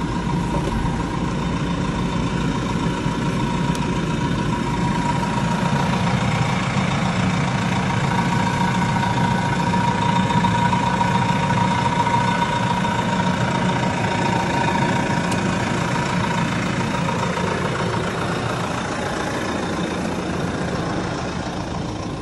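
Big farm tractor running, heard from inside its cab: a steady engine drone with a thin high whine over it, easing off near the end.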